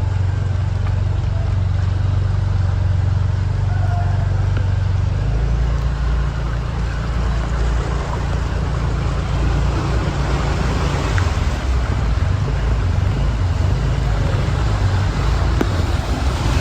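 Vehicle engine running steadily over a constant hiss of traffic and water; the low drone drops in pitch about five seconds in.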